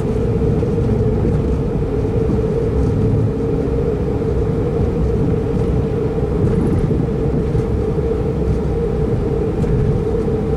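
Steady running noise of a Pendolino electric tilting train heard from inside a passenger car while it travels along the line: a dense rumble with a steady hum over it.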